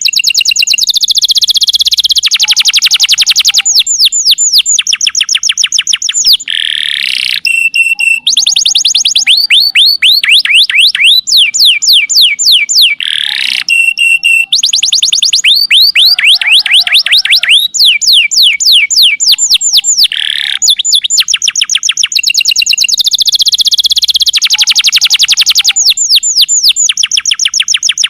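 Domestic canary singing a long, loud song of rapid trills and rolls, fast runs of repeated chirping notes changing from phrase to phrase. The same sequence of phrases comes round again about every seven seconds.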